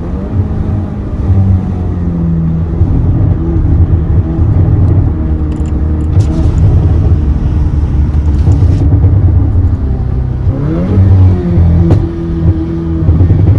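Audi S3's turbocharged four-cylinder engine running under way with a strong low rumble, its note shifting as the revs change, and a clear rise in revs about ten and a half seconds in.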